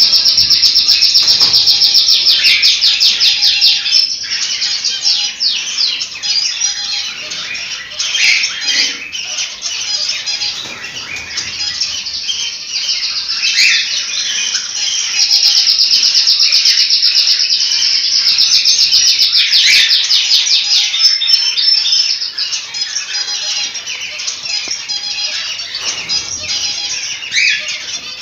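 A flock of cockatiels chirping and whistling without a break, many calls overlapping. There are two stretches of fast, rapidly repeated notes: one in the first few seconds and one again about halfway through.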